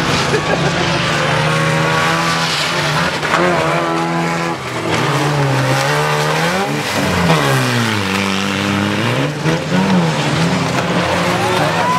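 Several cars towing caravans race round a tarmac track, their engines revving up and down in pitch over one another, with the deepest swoops between about six and ten seconds in.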